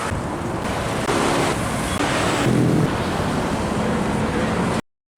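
Road traffic passing close by: engine and tyre noise from trucks and cars, steady and loud, with engine tones swelling as vehicles go past. It cuts off abruptly just before the end.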